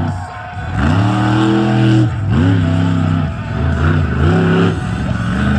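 Monster truck engine revving hard in repeated throttle bursts: the pitch climbs quickly, holds, then drops, about four times.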